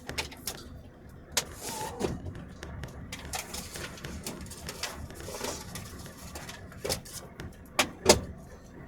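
Irregular knocks and clicks inside a vehicle cab creeping slowly downhill on snow, over a faint low rumble, with the two sharpest knocks near the end.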